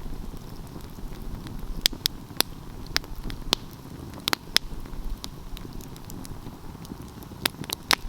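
Wood fire crackling, with sharp pops scattered irregularly over a steady low rumble of flames.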